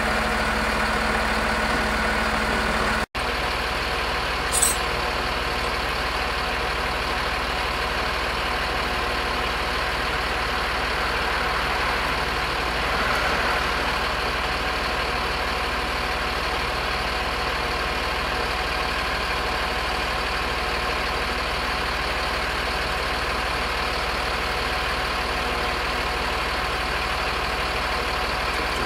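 A vehicle engine idling steadily, with a brief dropout about three seconds in and a short sharp click a second or so later.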